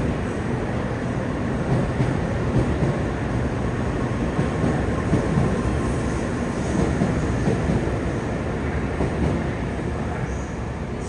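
A train running, a steady rushing rumble that eases off near the end.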